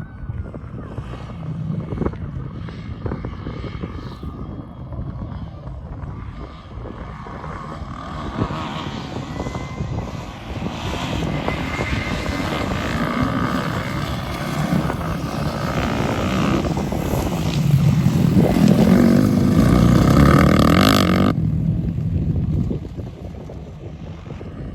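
Motocross dirt bike engines running, with the buzz growing louder as a bike comes close, peaking about three quarters of the way through, then dropping away suddenly.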